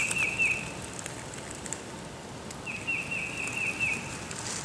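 A songbird singing a phrase of about eight quick, down-slurred whistled notes. The first phrase ends just after the start, and the bird repeats it about two and a half seconds later.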